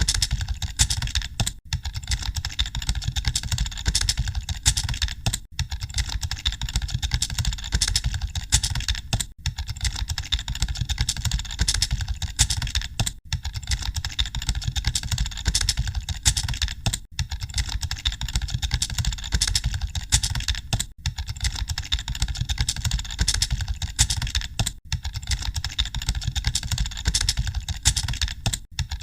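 Computer keyboards being typed on, a dense and steady clatter of keystrokes like a hall full of typists. A low rumble runs under it, and the clatter drops out briefly about every four seconds.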